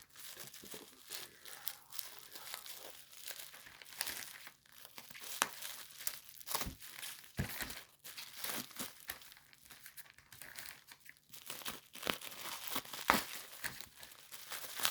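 Taped coin packaging being torn open by hand: irregular crinkling, crackling and tearing of wrapping and tape, busier and louder near the end.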